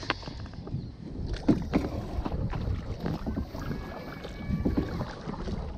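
Paddle strokes splashing in lake water from a small paddled craft, with wind buffeting the microphone.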